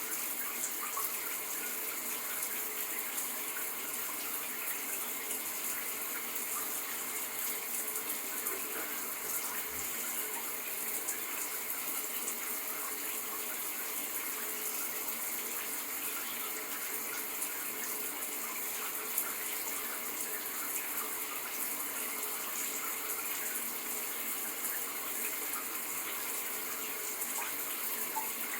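Shower running: a steady stream of water spraying and splashing.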